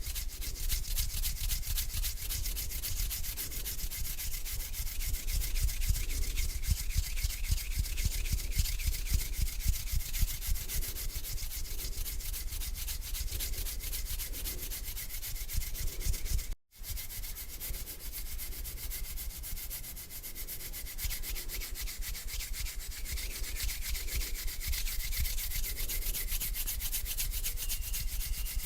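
Bare hands rubbing together in slow, repeated strokes, a dry skin-on-skin swishing. It cuts out for a moment about two-thirds of the way through, then resumes.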